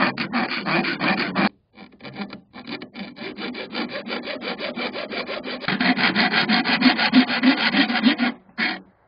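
Rapid rasping strokes of hand filing on the steel ammo can, about six a second, with two short pauses after about a second and a half and stopping shortly before the end.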